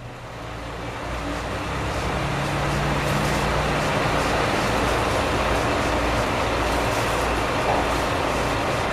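Diesel train running, heard from inside a railcar: its noise builds over the first two or three seconds, then holds steady and loud.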